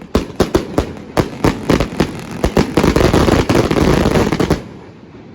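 Consumer fireworks going off: a quick run of sharp bangs, then a dense, rapid crackling that cuts off about four and a half seconds in.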